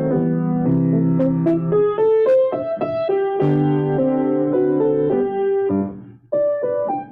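Solo piano playing held chords under a moving melody, with a short break about six seconds in before a new phrase of quicker notes starts.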